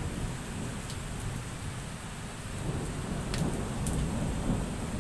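Heavy rain falling in a thunderstorm, with a low rolling rumble of thunder underneath and a few sharp ticks of drops striking near the microphone.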